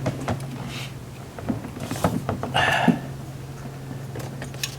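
Scattered light clicks, taps and a short rustle of small metal parts and tools being handled during reassembly, over a steady low hum.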